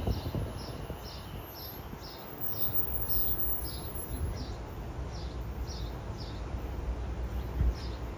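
A bird repeating a short high chirp about twice a second, with a short pause near the end, over a steady low rumble.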